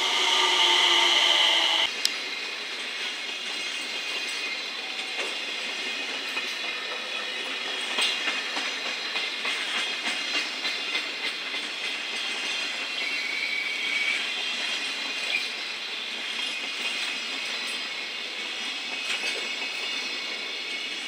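Container flatcars of a freight train rolling past at very low speed, wheels clicking irregularly over rail joints, with a brief high flange squeal about two-thirds of the way through. In the first two seconds a 227 series electric train passing close by is louder, and its sound stops abruptly.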